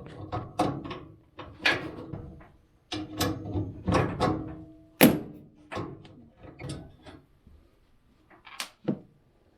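Irregular knocks and clunks of tools and metal parts being handled at a gas dryer's burner assembly, some with a short metallic ring; the loudest knock comes about five seconds in.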